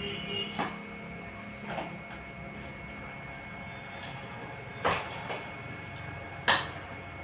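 Four short light knocks or clacks, the loudest two about five and six and a half seconds in, over a steady faint background hum.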